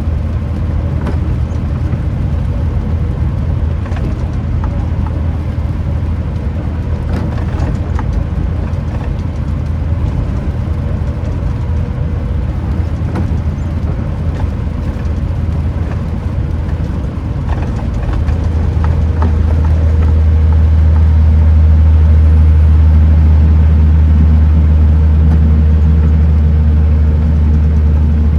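Kenworth T909 truck's diesel engine droning steadily at a low pitch, growing louder about eighteen seconds in and holding there. Scattered clicks and taps come through the first half.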